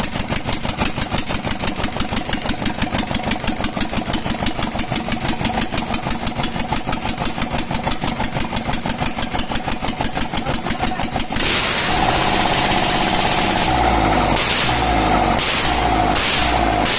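Old Tata 407 diesel engine idling steadily with an even, rapid clatter on its first start. About eleven seconds in, the sound cuts suddenly to louder music with a repeating beat.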